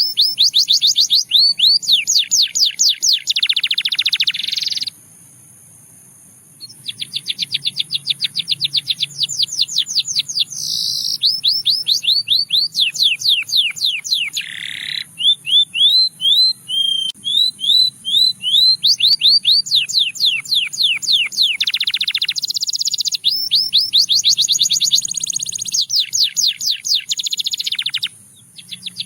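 A canary singing a long song of fast trills of rapidly repeated sweeping notes, stopping for about two seconds a few seconds in. About halfway through it slows to a run of separate whistled notes before returning to fast trills.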